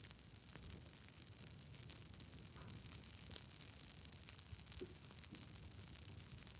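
Campfire crackling: faint, scattered pops and snaps over a low, steady rumble of the fire.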